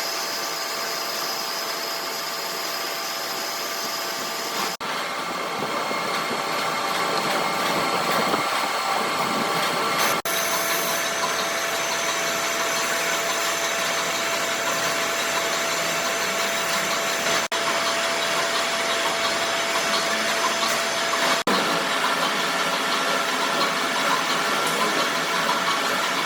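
A workshop machine running steadily, a constant noise with a steady whine in it, breaking off for an instant a few times.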